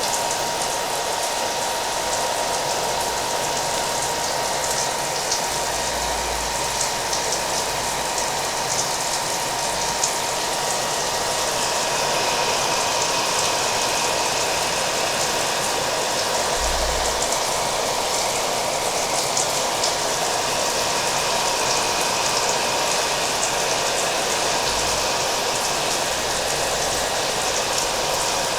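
A hair dryer running steadily, its motor giving a constant whine, mixed with the sound of rain falling in many fine drop ticks.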